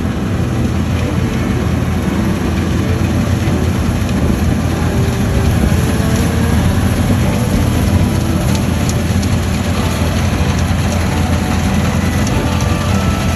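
New Holland TX66 combine harvester running steadily while harvesting: a loud, continuous low drone of its engine and threshing machinery.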